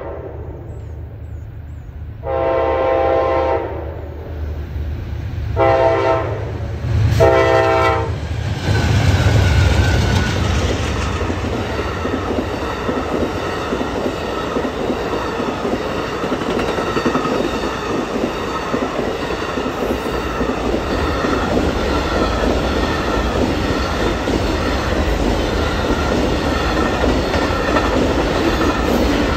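Amtrak Auto Train locomotive horn blowing the grade-crossing signal: the end of one long blast, another long blast, a short one and a final long one. The diesel locomotives rumble past about eight seconds in, and then the long train of passenger cars and autorack car carriers rolls steadily by with a clickety-clack of wheels on the rails.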